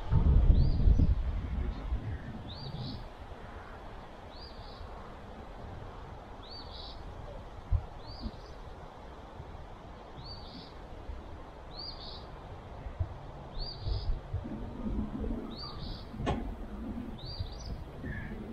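A songbird repeating one short, high call about every two seconds. There is a low rumble in the first two seconds and a sharp click near the end.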